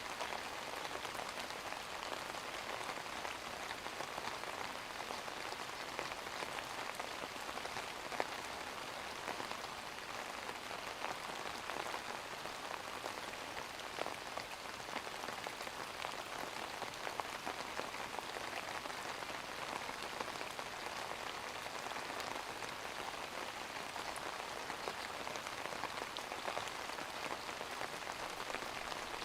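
Steady rain falling on a surface, an even hiss with many individual drops pattering.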